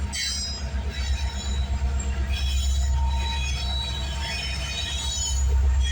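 CN freight train passing close, with its mid-train distributed-power locomotive going by: a steady low rumble under several thin, high squealing tones from the wheels.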